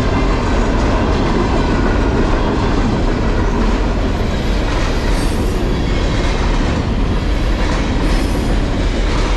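Freight cars carrying empty garbage containers rolling past at speed: a steady, loud rumble of steel wheels on rail, with a faint high wheel squeal.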